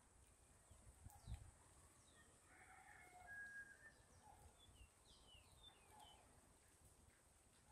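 Near silence, with faint distant bird chirps: short, high, falling calls, a cluster of them in the second half. A soft low bump about a second in.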